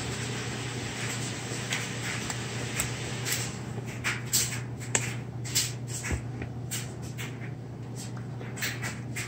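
Many small clicks and taps from a baby eating, thickest in the middle, over a steady low hum.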